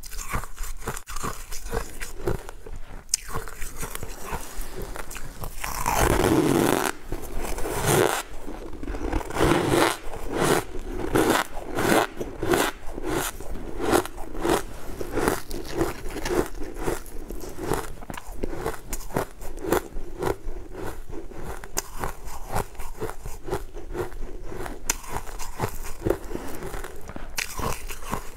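Close-miked chewing of soft purple cake, a steady run of wet mouth sounds at about two chews a second, with a louder stretch about six seconds in.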